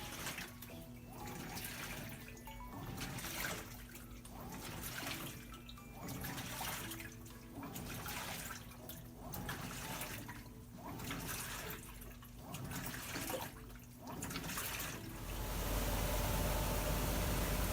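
Hitachi BeatWash top-loading washing machine agitating its wash, water sloshing in a regular back-and-forth rhythm about every second and a half. About fifteen seconds in it changes to a steady rushing hiss.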